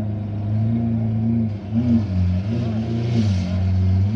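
Lamborghini Aventador's V12 engine idling, with several short, light blips of the throttle that briefly raise its pitch.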